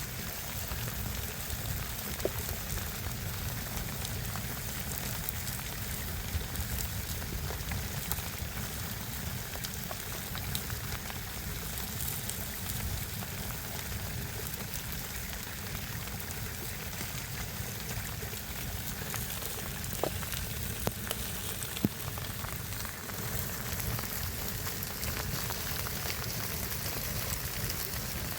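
Steady, even hiss of water, with a few sharp clicks scattered through.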